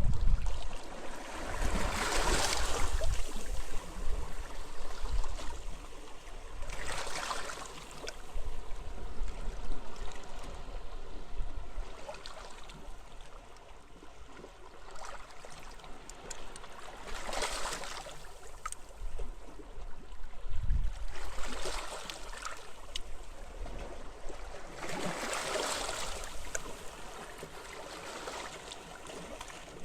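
Sea waves breaking and washing up the beach, about five separate surges each swelling for a second or two, over a low rumble of wind on the microphone.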